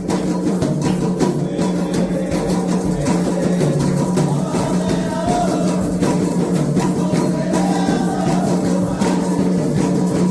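Candomblé ritual music: atabaque drums beating a steady rhythm, with voices singing over them.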